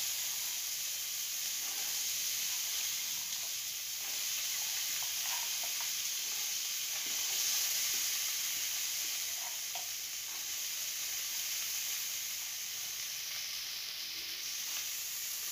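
Soaked black chickpeas sizzling in hot oil with cumin seeds in a nonstick frying pan, a steady hiss as the water on the wet chickpeas hits the oil. A wooden spatula stirs them now and then with a few light scrapes.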